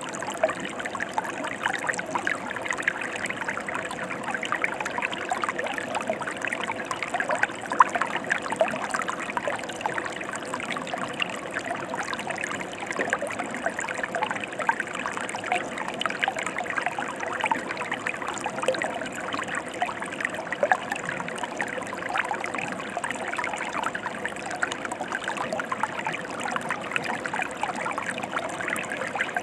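Mountain stream flowing over rocks: a steady rush of water with many small splashes and trickles.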